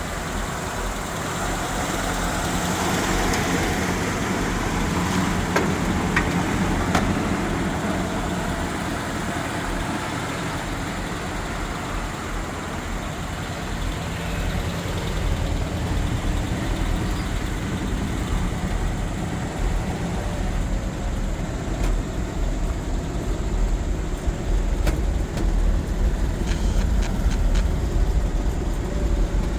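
1952 Ford F3 truck's engine running steadily, a low rumble that grows a little louder over the last few seconds.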